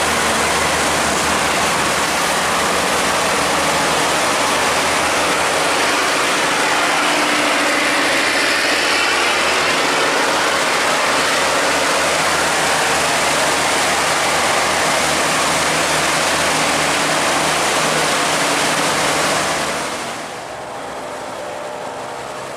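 A loaded barge's engine running steadily under the loud rush of water pouring through a sluice gate. The whole sound drops off fairly suddenly about twenty seconds in.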